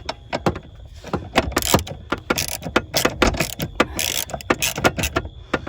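Ratchet wrench with a 13 mm socket clicking in quick, uneven strokes, with short rasping runs, as it tightens a loose steering-column mounting nut on a 1999 Jeep Cherokee XJ. The loose nut is the cause of the loose, shaky steering column.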